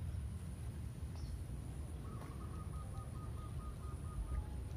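Outdoor background with a steady low rumble and a faint constant high whine. About halfway through, a bird calls a quick series of short notes on one pitch, about four a second.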